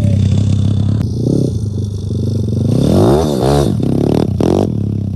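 Pit bike's single-cylinder four-stroke engine running under way, the revs rising and falling several times in quick throttle changes a little past the middle. The engine note drops off near the end.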